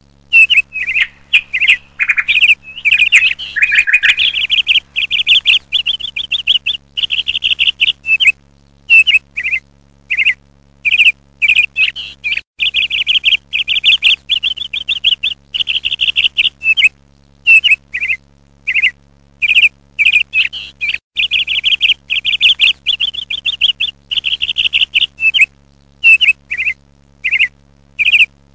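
Small birds chirping: rapid runs of high chirps and short trills, broken by brief pauses.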